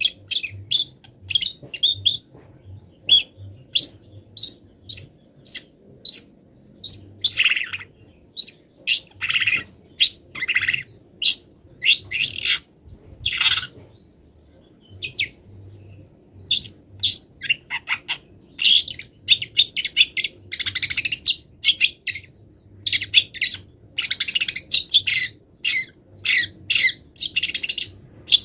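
Long-tailed shrike (cendet) singing a rapid series of short, sharp chirps, about one or two a second, with longer, lower notes mixed in. It is a full song packed with mimicked calls of wild birds. It breaks off for about two seconds midway.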